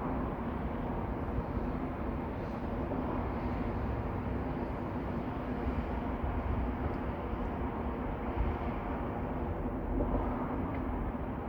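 Steady low rumble of background noise with a constant hum underneath, unbroken and even in level.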